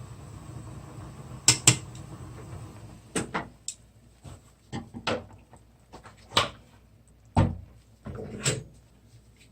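Close-miked eating sounds: short wet smacks and clicks of chewing and utensils, coming one at a time about once a second, with two sharp clicks near the start.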